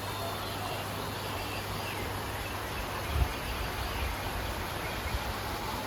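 Outdoor ambience: a steady hiss with faint high chirps of insects, under a low steady hum, and one dull low thump about three seconds in.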